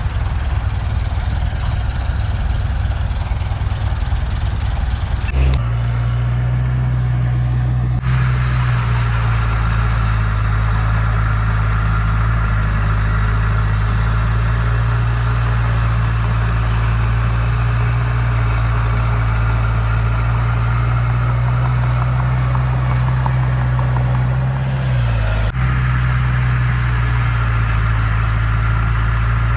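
Heavy construction-machine diesel engine running steadily with a deep, even hum. The sound changes abruptly a few times.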